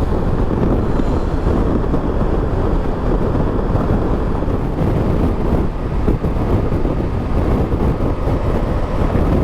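Steady wind rush and engine noise of a Triumph Tiger 1200 GT Explorer motorcycle while riding.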